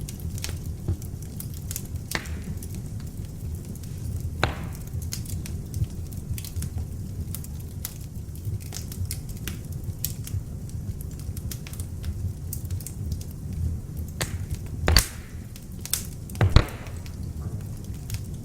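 Beech logs burning in an open fireplace: a steady low rumble of flames with frequent small crackles and a few louder pops and snaps, the loudest near the end.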